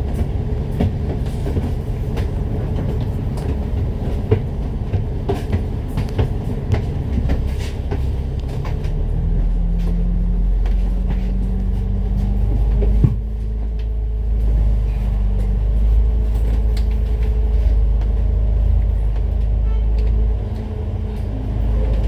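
Inside a moving Citybus bus: steady engine and road rumble with light rattling of fittings. The engine note rises as the bus picks up speed, a single knock comes about 13 seconds in, and then it runs steadily.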